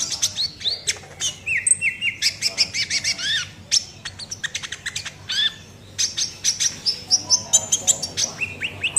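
A kolibri ninja sunbird singing a rapid run of sharp, high chirps and short rising and falling whistled notes, tightly packed with one short pause in the middle: the full-on 'nembak' song that keepers prize.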